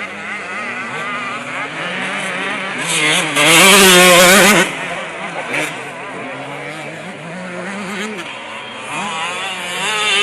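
Motocross bike engines revving, their pitch rising and falling as the riders work the throttle. One bike is much louder for about a second and a half, from a little after three seconds in.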